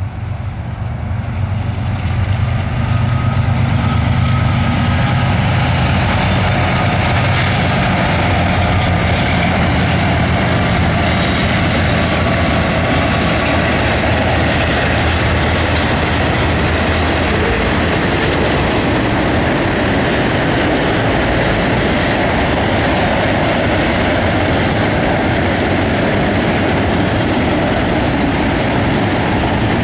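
CSX diesel-hauled intermodal freight train passing. The locomotives' low engine hum builds over the first few seconds, then the steady noise of the double-stack container cars' wheels rolling on the rails takes over.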